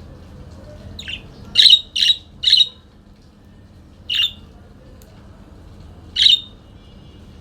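Parakeet giving short calls: a faint one about a second in, a quick run of three loud ones just after, then single calls about four and six seconds in.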